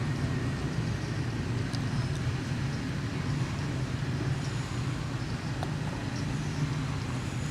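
Steady low rumble of outdoor background noise, like traffic or an idling engine, with a few faint ticks.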